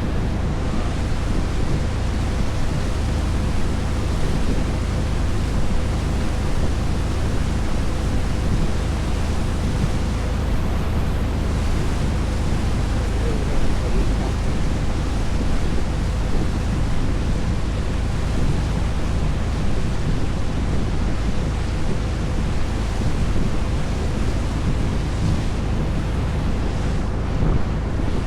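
Motorboat under way, its engine running steadily under the rush of water along the hull and wind buffeting the microphone.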